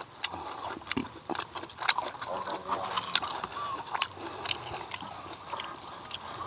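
Close-miked chewing of a mouthful of rice and smoked catfish, with irregular wet lip smacks and mouth clicks every half second or so.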